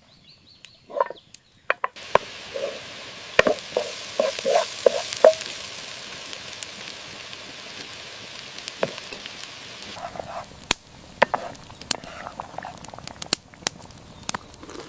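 Vegetables frying in a hot pan: a steady sizzle sets in about two seconds in, with clicks and short scrapes of a utensil stirring. Around two-thirds of the way through the sizzle drops and sharp clicks and knocks take over.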